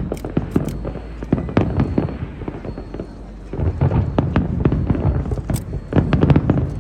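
Aerial fireworks bursting one after another in many sharp bangs, sparser for a moment, then a dense, rapid volley from about halfway on.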